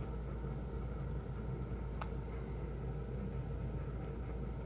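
Steady low background hum, with one faint click about two seconds in.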